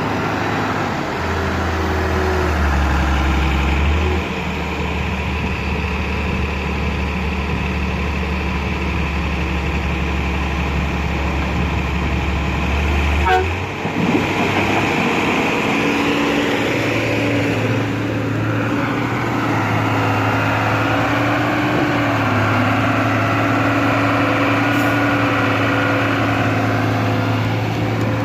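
Heavy diesel machinery running steadily, a low engine drone. About fourteen seconds in, the engine note changes and settles into a higher, steadier hum.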